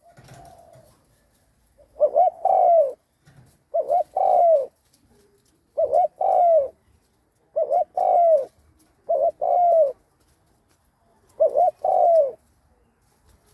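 Spotted dove cooing: six phrases about two seconds apart, each two short notes followed by a longer falling coo. It is a caged decoy bird calling to draw in wild doves.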